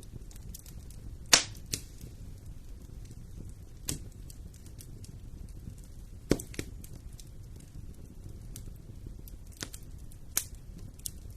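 Wood fire burning in a fireplace: a low steady rumble with sharp crackles and pops at irregular moments, the loudest about a second in and again about six seconds in.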